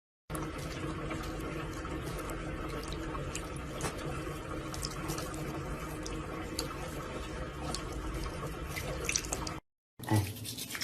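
Water running steadily from a tap, with scattered light ticks or drips.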